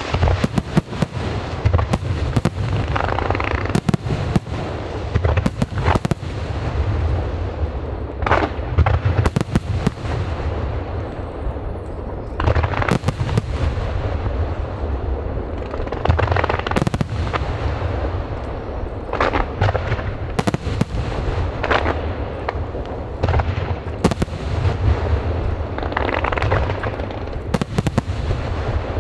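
Aerial fireworks bursting continuously in a large display: a steady barrage of sharp bangs and booms, with crackling trails and a deep rumble beneath.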